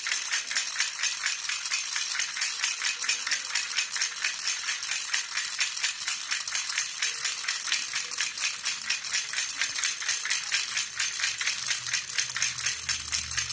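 Jhunjhuna baby rattle shaken steadily, a fast, continuous bright jingle.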